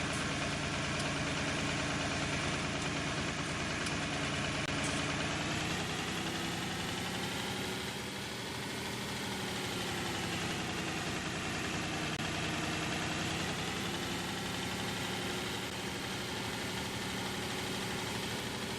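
Old tractor engine idling, back running after standing unused for 28 years. Its speed wavers, sagging and picking up again a couple of times midway.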